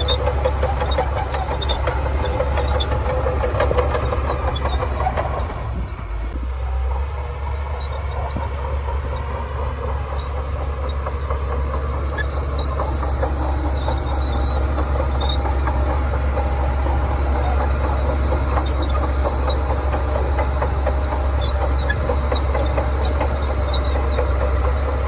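Shantui DH17C2 crawler bulldozer's diesel engine working, a steady low drone with clatter over it. The engine note sags briefly about six seconds in, then settles back to a steady run.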